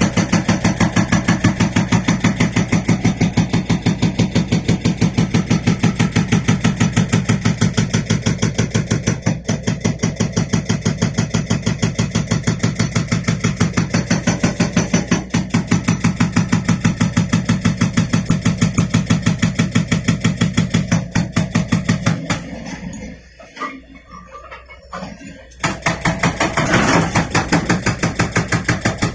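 Excavator-mounted hydraulic rock breaker hammering rock, with rapid, evenly spaced blows, several a second, over the excavator's diesel engine. The hammering stops for about three seconds near the end, then starts again.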